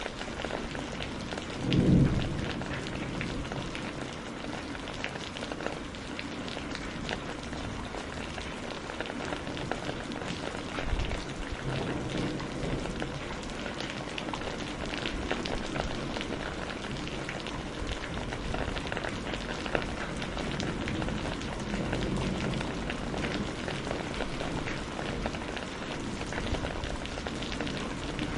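Steady rain falling, with many small drops pattering. There is a brief low rumble of thunder about two seconds in, and fainter low rumbles later.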